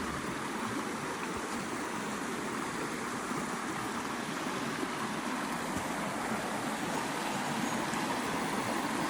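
Creek water running, a steady noise with no breaks.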